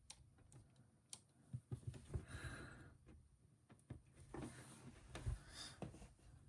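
Faint scattered clicks and short rustles of a plastic action figure being handled.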